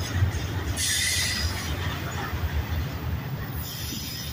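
Double-stack intermodal freight train cars rolling past close by: a steady low rumble of steel wheels on rail, with a brief burst of high-pitched noise about a second in and another near the end.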